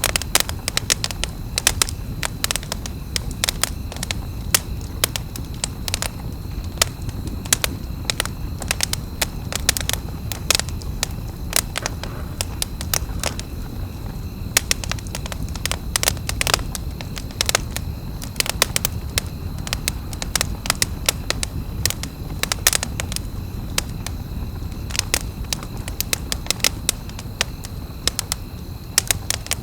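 Wood campfire crackling, with frequent sharp pops and snaps over a steady low rumble of the flames.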